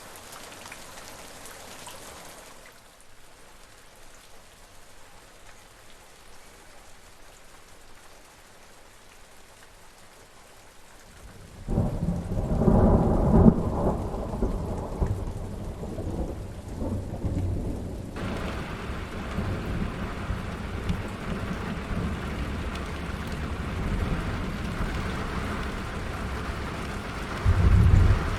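Rain falling softly, then a loud sudden thunderclap about eleven seconds in that rolls on as a low rumble for several seconds. The rain then comes down heavier and steady, with another short low rumble of thunder near the end.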